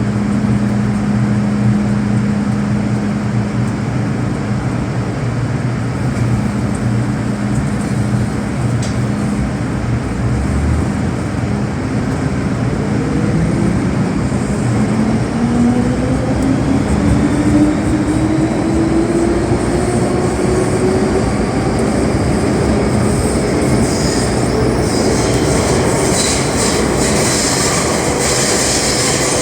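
MTR M-Train electric multiple unit heard from inside the car as it pulls away and accelerates. The traction motor whine rises steadily in pitch over about ten seconds, over a steady low hum and wheel-on-rail noise. Rail noise and hiss grow louder near the end as the train gathers speed.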